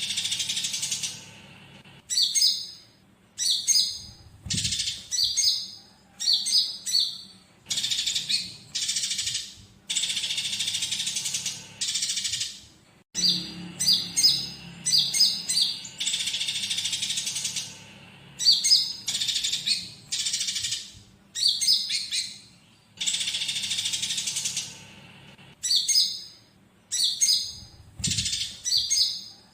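Bird-song tutor track of a konin singing, with calls of fighting tree sparrows mixed in. It goes in phrases of quick high chirps, alternating with dense chattering runs about a second long, with short pauses between them.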